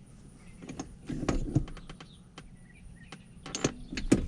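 A few scattered light clicks and knocks from a newly fitted shift knob and gear lever being handled, coming in small pairs about a second in, again around a second and a half, and twice more near the end.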